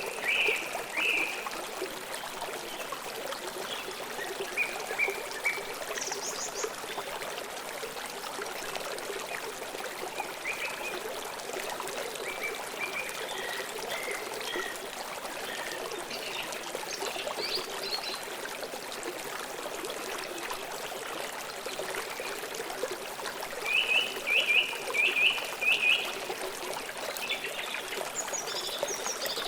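Stream water flowing and trickling steadily, with birds chirping now and then: a few short calls early on and a quick run of chirps near the end.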